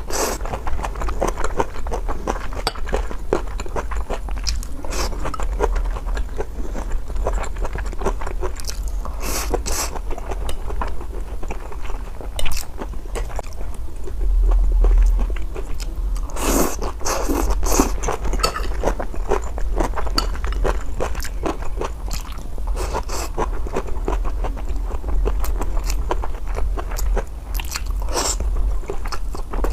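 Close-miked biting and chewing of crunchy food: dense crisp crunches and wet mouth sounds, over a low steady hum.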